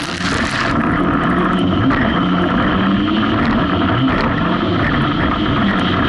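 Personal watercraft (jet ski) engine running under way, its pitch wavering up and down, with a rush of spray or wind noise about the first second.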